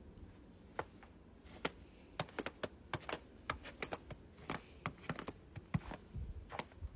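Faint, irregular clicks and taps, about two a second.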